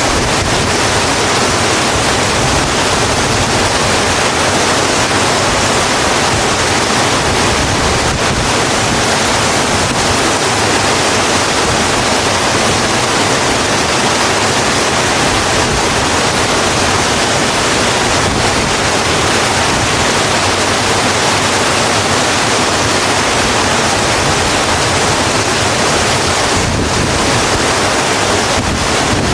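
Steady, heavy rain falling: an even, unbroken hiss of water.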